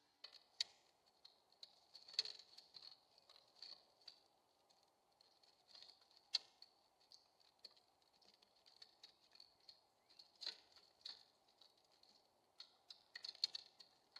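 Irregular light taps and clicks of a bird pecking at seed and moving about on a Bird Buddy smart birdfeeder, close to the feeder's built-in microphone, over a faint steady high hiss.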